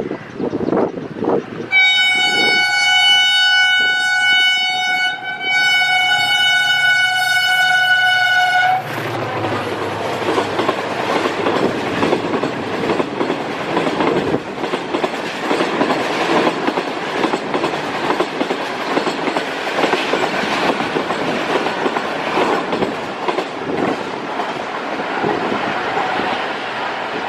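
Diesel locomotive horn sounds one long blast, about seven seconds with a brief break near the middle. Then it stops, and the passing train's wheels rumble and clatter over the rails without a break.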